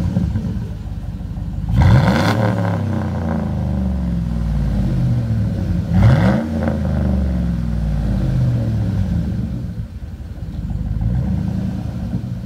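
Straight-piped 5.3-litre V8 of a 2011 Chevrolet Silverado, with no mufflers from the cats back, run hard. The revs jump sharply about two seconds in and again about six seconds in, and the pitch sinks slowly back after each.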